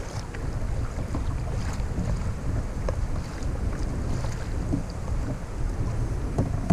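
Wind buffeting the microphone on open water, a steady low rumble, with small irregular splashes and knocks of water against a kayak.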